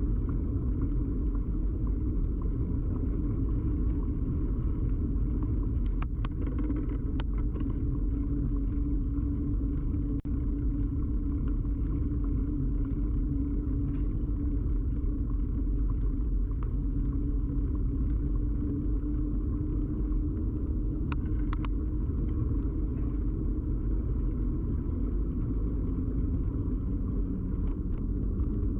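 Steady low rumble and hum of a bicycle in motion, picked up through a camera fixed to the bike's frame, with a few sharp rattling clicks about a quarter of the way in and again about two-thirds through.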